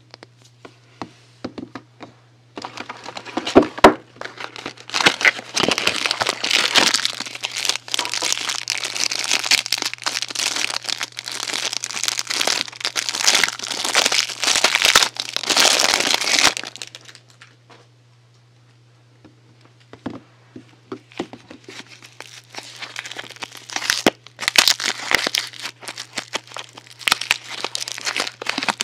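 Soap packaging being unwrapped by hand, with dense crinkling and tearing for about fourteen seconds, a few seconds' pause, then scattered crinkles that pick up again near the end. A faint steady hum sits underneath.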